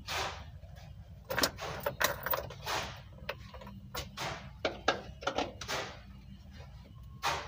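A series of irregular sharp clicks and knocks from hands working on the vehicle, over a steady low rumble.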